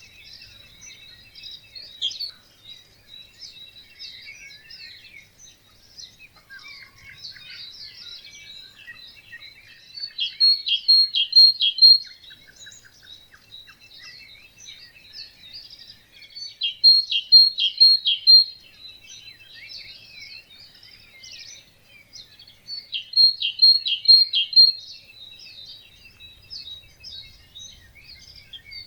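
Several songbirds singing together in a morning chorus. One nearby bird repeats a loud phrase of four or five ringing notes three times, about six seconds apart, over the continuous twittering of the others.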